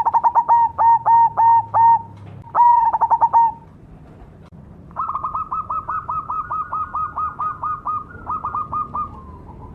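Zebra dove (perkutut), the black cemani variety, singing its cooing song of rapid staccato notes in three phrases. The last phrase, from about five seconds in, is longer and slightly higher.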